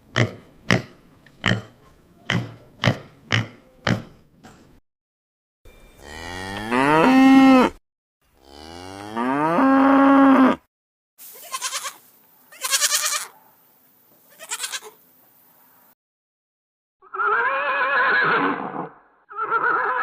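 A run of about nine sharp clicks, then a cow mooing twice in two long calls that rise and then hold steady, then three short noisy sounds. Near the end a horse starts a wavering whinny.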